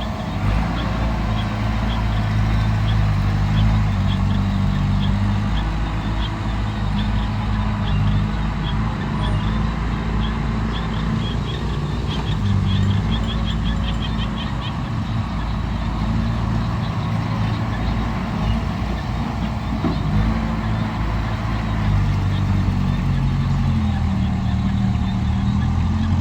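Heavy diesel machinery running steadily under load, its engine note stepping up and down now and then.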